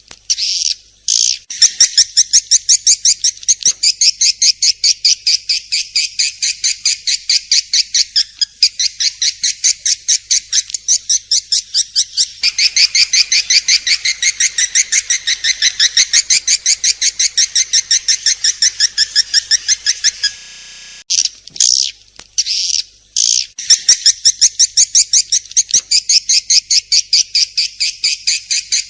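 Swiftlet (walet) calling: a rapid, continuous string of high chirps, about five a second, broken by a few short pauses.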